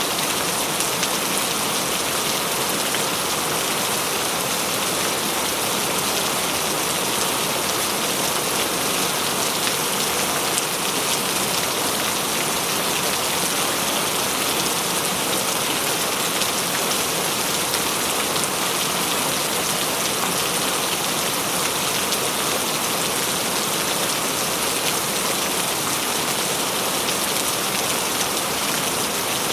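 Steady rain falling on a surface, a constant even hiss of many drops with no thunder or change in intensity.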